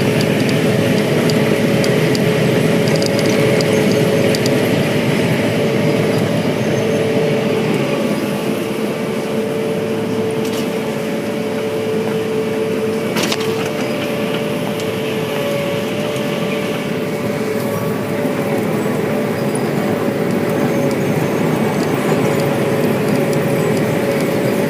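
Sugar cane harvesting machinery at work, a Cameco 3510 cane harvester with a John Deere 6170R tractor and haul-out bin: steady, loud engine and machinery noise with a constant high whine.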